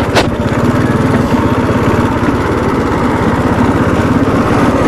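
Bajaj Dominar 400's single-cylinder engine running steadily while riding, with one sharp knock just after the start.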